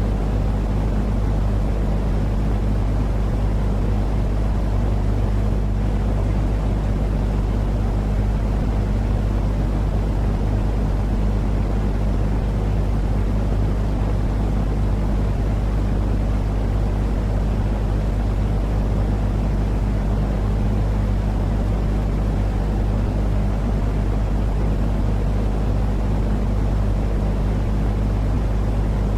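Steady, unchanging low rumbling noise with a few steady low hum tones in it, played continuously as soothing sleep noise for babies.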